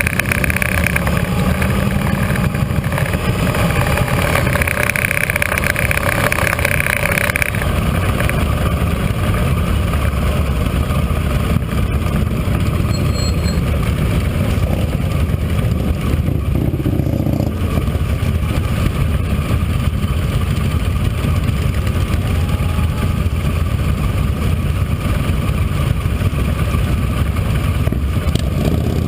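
Motorcycle engine running steadily in a low, continuous rumble, with a higher-pitched sound layered over it for the first seven seconds or so.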